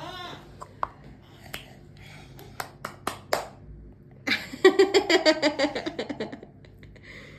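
A few sharp clicks or taps, then a young child's high voice in quick rhythmic pulses for about two seconds, starting a little past the middle.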